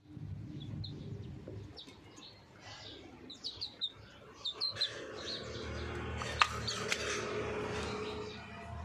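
Chicken peeping in short, high chirps that come in quick runs, with two sharp clicks a little past the middle.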